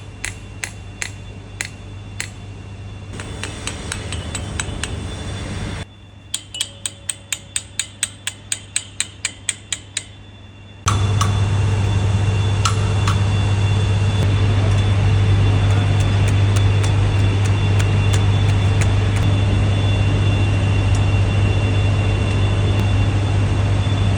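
A run of sharp, evenly spaced metallic ticks, two or three a second, over a low hum. About eleven seconds in, an engine starts running steadily and loudly.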